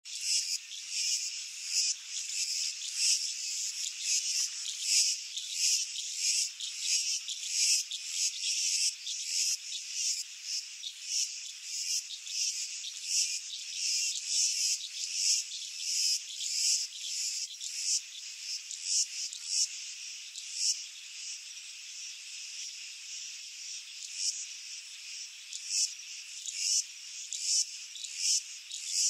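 Dense chorus of insects such as crickets or cicadas: a high, shrill buzzing that pulses and swells several times a second without a break.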